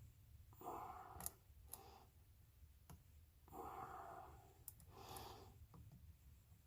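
A person's heavy breaths out, three short puffs a couple of seconds apart, with a few light clicks of small tools between them.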